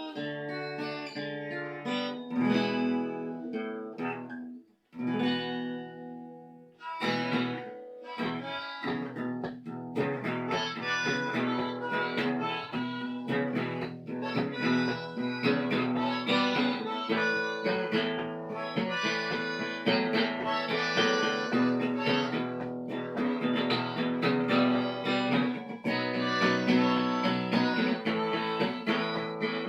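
Harmonica played together with a plucked string instrument in an informal jam, stopping briefly about five seconds in, then running on continuously from about seven seconds.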